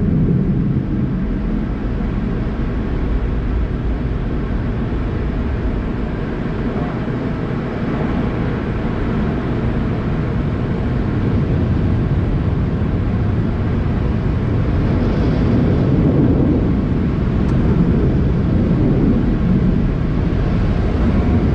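Automatic car wash machinery running around the car: a loud, steady rushing rumble that swells a little now and then.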